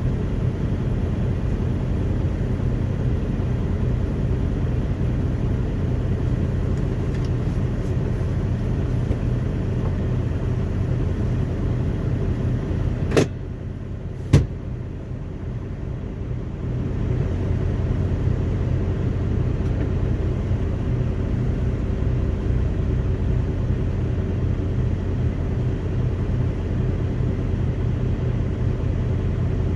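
Loaded semi-truck's diesel engine running steadily, heard from inside the cab. About thirteen and fourteen seconds in come two sharp clicks, after which the engine sound drops for a few seconds before building again.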